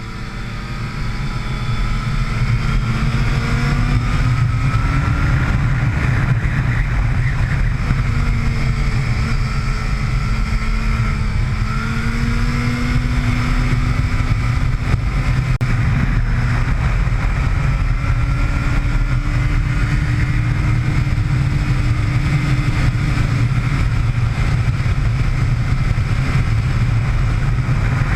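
Motorcycle engine running hard on a race track, its note rising and falling repeatedly as it accelerates and slows through corners, over a loud steady rush of wind and road noise. It builds up over the first few seconds.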